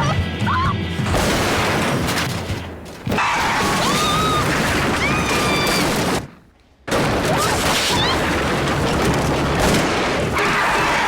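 Dramatised car crash: a loud, noisy crash din with high squealing glides like tyres or metal, cutting to near silence for about half a second about six seconds in, then loud again.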